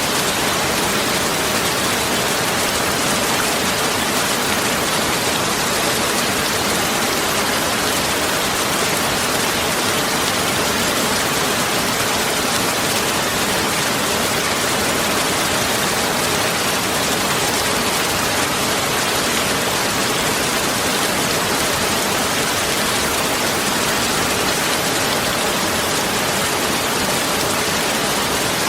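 A steady, unchanging rushing hiss like heavy rain, spread evenly from low to very high pitches with no distinct drops, knocks or tones.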